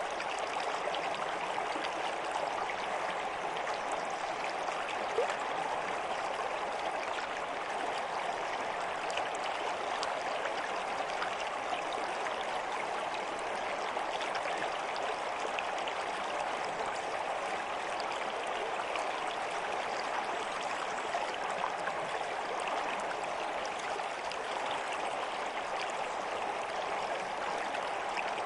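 Flowing stream: a steady, even rush of running water with fine splashing throughout.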